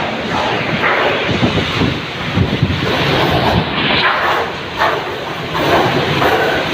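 Storm-force wind gusting and buffeting the microphone, a dense rushing noise that swells and eases from gust to gust.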